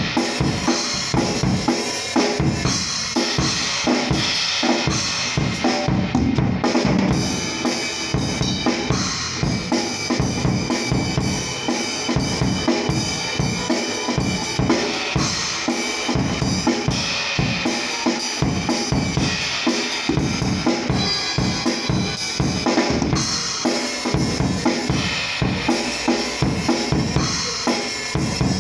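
Acoustic drum kit played in a steady groove: bass drum, snare and cymbals with no other instruments, picked up by a phone's microphone.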